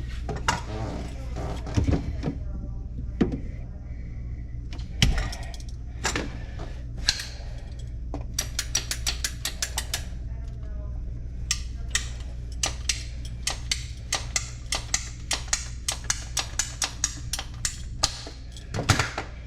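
Tools and plumbing parts being handled: scattered clicks and knocks, with a fast run of clicks about eight seconds in, over a steady low hum.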